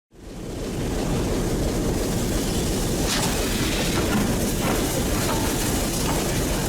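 Steam-hauled train running along the track: a steady rumble with wheel and rail noise, fading in over the first second.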